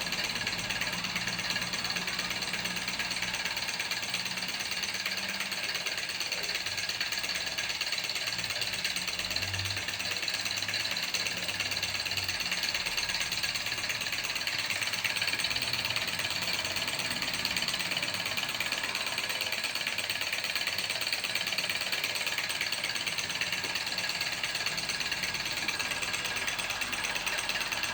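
Small battery-powered model Stirling engine running steadily, a fast, even mechanical clatter that holds the same speed throughout.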